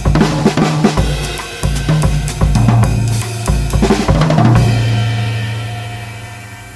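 Pearl Midtown compact drum kit played with maple sticks: snare, bass drum and cymbal strokes in a groove that ends with a final hit about two-thirds of the way in. A low drum tone and cymbal wash are then left ringing and fading out.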